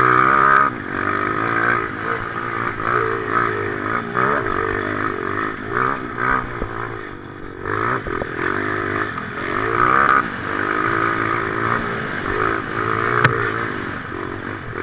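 Motocross motorcycle engine running hard, its pitch rising and falling again and again as it revs up and eases off, with a sharp click near the end.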